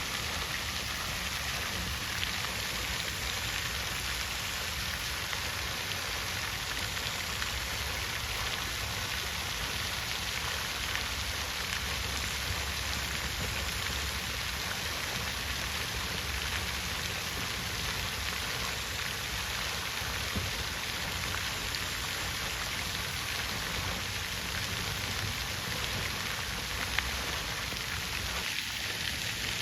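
Water fountain splashing: a steady, even patter of falling water into a basin.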